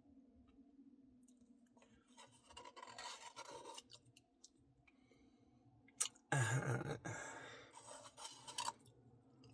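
Close-miked eating of a soft-serve Blizzard: scratchy scraping and chewing sounds, with a click about six seconds in followed by a louder stretch.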